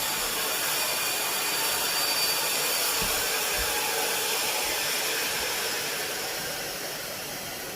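A train passing: a steady rushing noise that swells over the first few seconds and then slowly fades.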